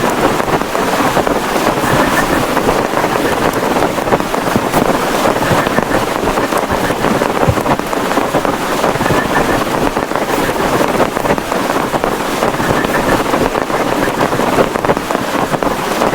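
Heavy rain beating steadily on a plastic tarpaulin, a dense, unbroken patter of countless drops.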